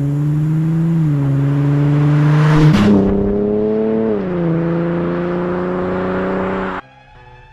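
Lexus IS 350 F-Sport's 3.5-litre V6 running through a muffler-delete exhaust as the car drives slowly. About a third of the way in there is a brief loud rush of noise and the engine note rises slightly, then settles back down. The sound cuts off suddenly near the end.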